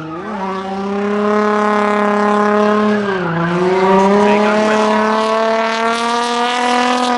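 A race car's engine running hard at high revs, with a steady, many-harmonic note. Its pitch dips about three seconds in, then climbs slowly again.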